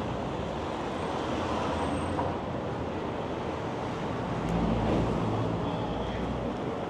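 City street traffic noise: a steady wash of passing vehicles, with a low rumble swelling about two-thirds of the way through.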